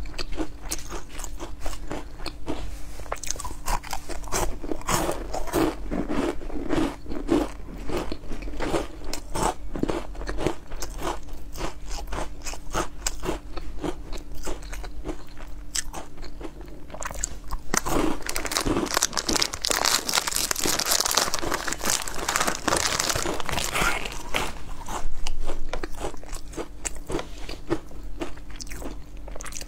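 Close-miked eating of a crunchy fried snack, likely mahua (fried dough twists): rapid crisp bites and crunchy chewing. A denser, hissier run of crunching comes a little past the middle.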